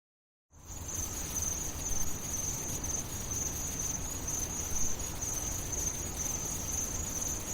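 Crickets chirping in a steady high trill over a low background rumble, starting about half a second in after a moment of dead silence.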